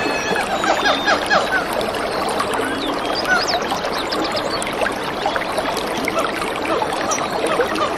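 Many small birds chirping and twittering, dense short chirps throughout, over the steady rush of running water such as a stream.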